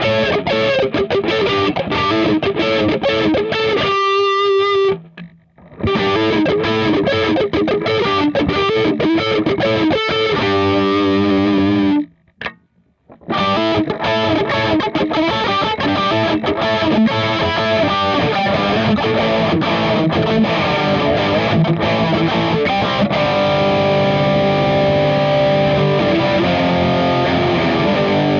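A DIY-kit SG-style double-cutaway electric guitar played through distortion, a run of riffs and chords. The playing stops twice for about a second, near the start and about halfway through, and the last few seconds hold longer ringing notes.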